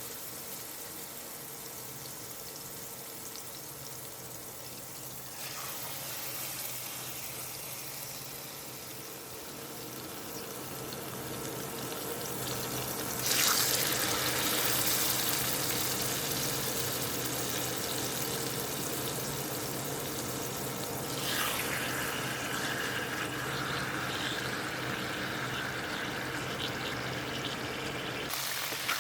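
Marinated chicken frying in hot oil in a pan: a steady sizzle that grows louder in steps, with a sharp surge about halfway through.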